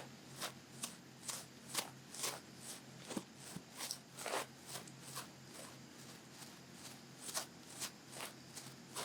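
Long-fluff ear pick making soft, scratchy swishing strokes in ear-cleaning ASMR, about two strokes a second, with a quieter stretch in the middle.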